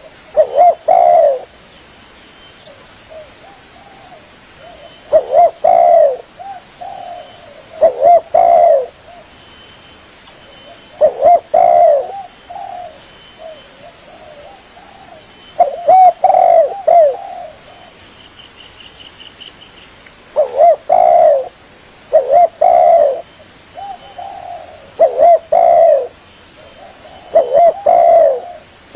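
Spotted dove (tekukur) cooing: loud, low, throaty coo phrases about a second long, repeated every few seconds, with softer coos in between.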